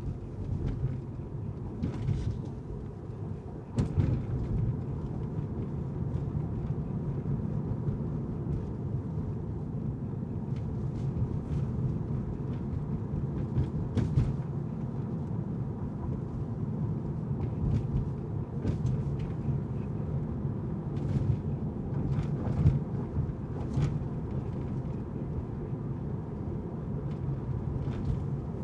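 Car driving on city streets: a steady low rumble of tyre and road noise, with scattered light clicks and knocks.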